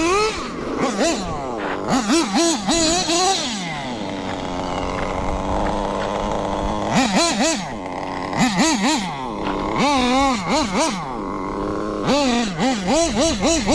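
Kyosho KE21SP nitro engine in an HPI Bullet RC car, revving up and down in quick repeated throttle blips, with a steadier stretch of running near the middle.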